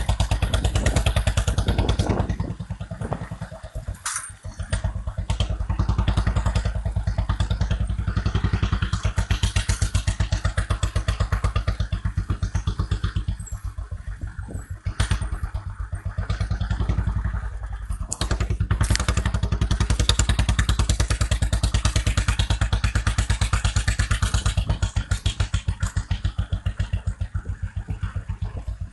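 Royal Enfield Classic 350's single-cylinder engine running through a changed exhaust, its exhaust pulses thudding steadily. The level drops a few times and picks back up, as with the throttle being eased off and opened again.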